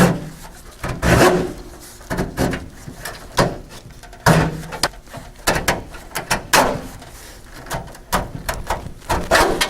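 Irregular scraping, rattling and knocking as an old fabric-lined metal glass run channel is pulled and worked up out of a steel 1950s Chevy truck door.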